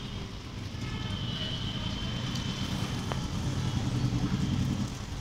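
A motor vehicle's engine running with a low hum, slowly growing louder and then easing off near the end.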